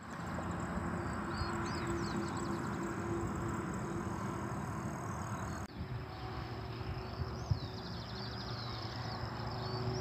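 Birds chirping and trilling in short, repeated rising-and-falling calls over a steady outdoor background with a faint low hum. About halfway through, the sound cuts off for an instant and resumes with the same kind of calls.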